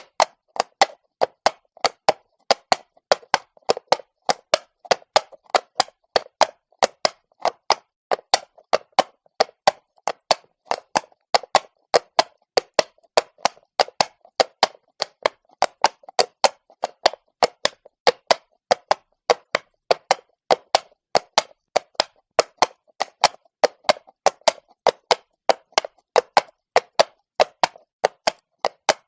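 Horse's shod hooves clopping on cobblestones at a walk, a steady, even rhythm of sharp knocks, about two to three a second.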